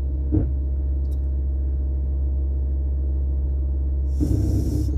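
Steady low drone of a car's engine and road noise inside the cabin while driving, with a brief knock about half a second in and a short breathy noise near the end.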